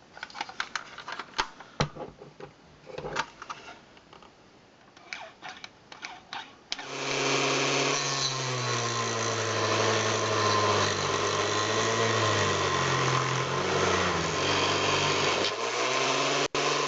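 Scattered light clicks and knocks of small parts being handled, then about seven seconds in a small electric power tool starts and runs steadily for about nine seconds, its pitch wavering slightly, before stopping near the end.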